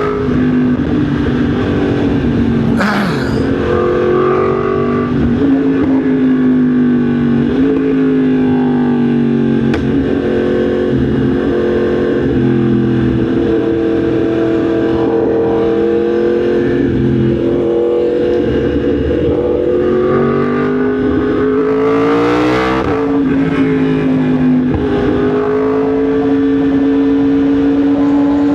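Yamaha MT-10 SP's crossplane inline-four engine running while riding, its pitch rising and falling with the throttle several times, with a quick rise in revs about three-quarters of the way through.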